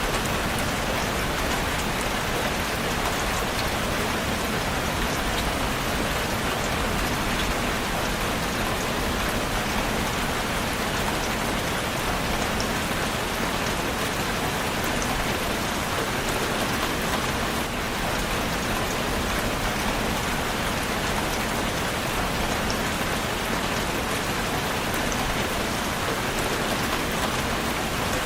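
Steady, even rain falling on a surface, with faint individual drop ticks.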